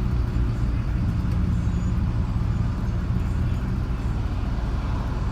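Steady low rumble of a car's engine and road noise while driving in traffic.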